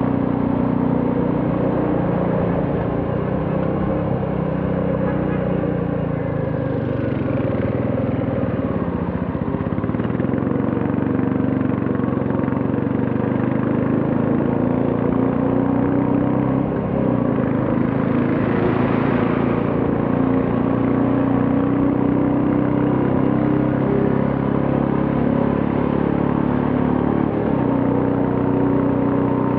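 Royal Enfield Classic 350's single-cylinder engine running on the move, its pitch dipping and climbing back between about six and ten seconds in. A brief rush of noise rises and fades about two-thirds of the way through.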